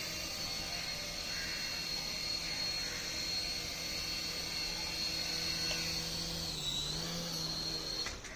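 A battery toy's small electric motor and gears whirring with a steady high whine; the pitch dips briefly about seven seconds in, and the motor cuts off just before the end.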